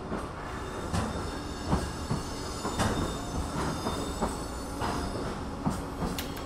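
Electric train rolling slowly into a station: a low rumble with irregular knocks from the wheels over rail joints and points, and a faint steady high squeal from the wheels.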